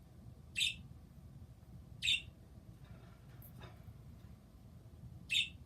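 A pet bird calling loudly, three short high-pitched calls spaced a second or more apart.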